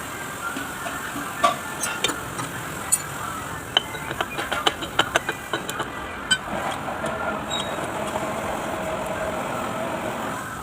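A steady mechanical running noise, likely an engine, with a string of sharp clicks in the middle. After that it settles into a steadier hum.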